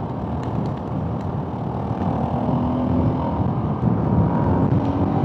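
Honda CRF 450RL's single-cylinder engine running steadily while riding, heard through a helmet-mounted mic with heavy wind rumble.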